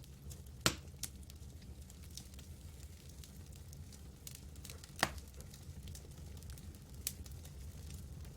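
Campfire crackling over a low steady rumble, with scattered small snaps and sharp pops, the loudest under a second in and about five seconds in, and a smaller one near the end.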